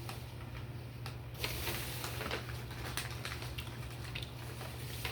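Eating sounds close to the microphone: small clicks and squishes of chewing and handling food, with a denser rustling burst starting about a second and a half in and lasting over a second.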